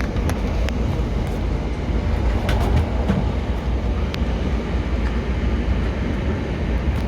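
Inside a moving passenger train: a steady low running rumble with a few scattered clicks and knocks.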